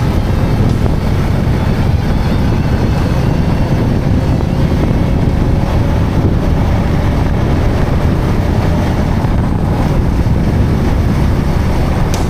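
Steady wind rush on the camera microphone from a moving motorcycle, with the motorcycle's engine and road noise underneath.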